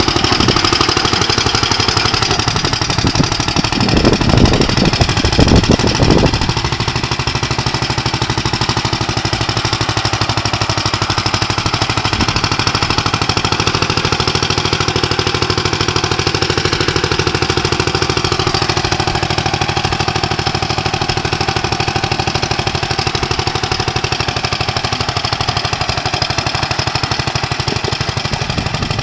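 16 hp side-shaft grain-auger engine of a homemade tractor running steadily with a rapid, even firing beat. It grows louder for about two seconds, around four seconds in, then settles back.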